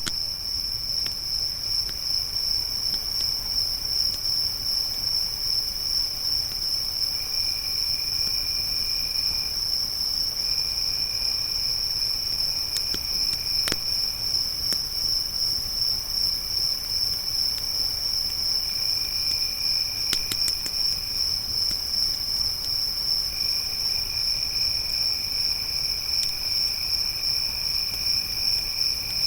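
A steady, unbroken chorus of crickets at one high pitch, with a second, lower insect trill that starts and stops every few seconds. A few sharp pops of a crackling campfire, the clearest about halfway through and a small cluster a few seconds later.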